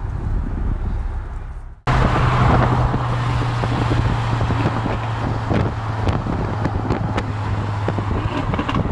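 A low engine rumble from cars in a car park, then, after a cut about two seconds in, a Mercedes-AMG A45 cruising alongside at steady motorway speed: a constant engine drone under wind and tyre noise, with a few sharp clicks.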